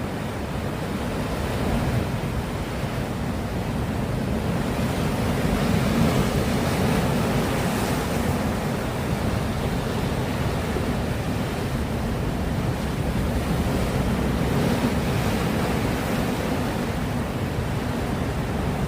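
Sea surf breaking on the shore: a continuous wash of waves that swells a little about a third of the way in and again after three-quarters.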